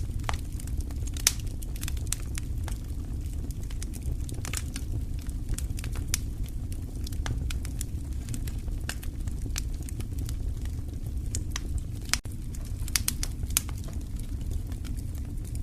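Wood fire crackling, with irregular sharp pops and snaps over a steady low rushing sound.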